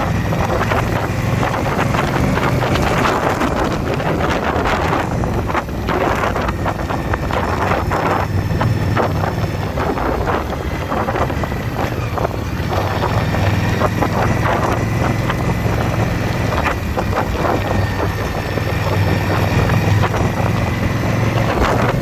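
Indian motorcycle V-twin engine running steadily at cruising speed, with heavy wind buffeting on the microphone.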